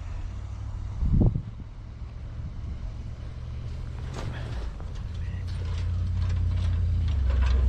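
1976 GM pickup's engine running steadily, with a short heavy thump about a second in. The engine then grows louder as the truck comes closer, with rattling clicks over it.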